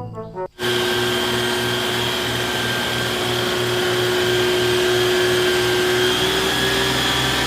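A steady whirring, motor-like noise with a low hum pulsing about twice a second. It starts suddenly about half a second in and cuts off suddenly at the end.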